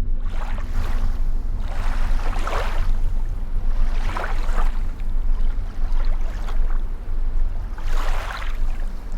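Water swishing and lapping around a kayak in surges about every two seconds, over a steady low rumble.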